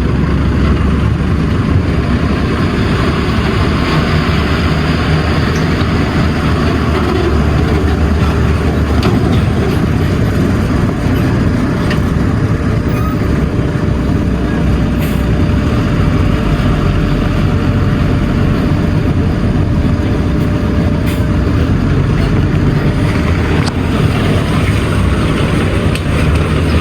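Heavy diesel machinery running steadily.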